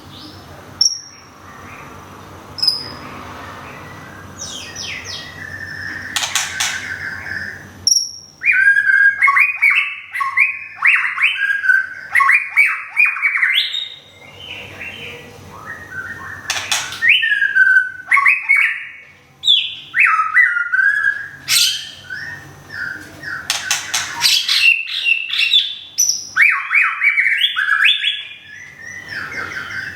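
White-rumped shama singing: a few short high notes, then from about eight seconds in a fast, varied run of whistled phrases with sharp clicks mixed in.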